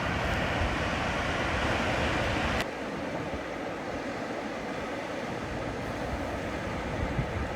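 Steady beach noise of surf and wind on the microphone, which drops suddenly to a softer wash about two and a half seconds in.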